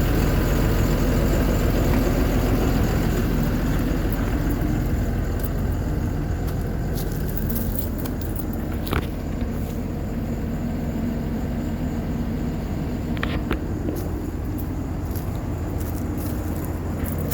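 Heavy truck diesel engine idling steadily, with a couple of brief clicks near the middle.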